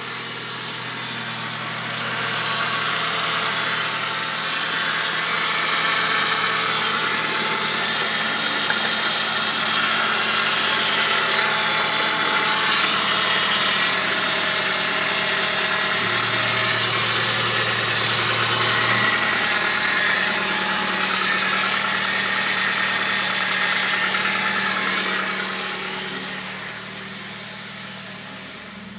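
Ford Focus 1.8 litre Zetec four-cylinder petrol engine (code EYDB) idling steadily. It gets louder over the first couple of seconds and fades toward the end.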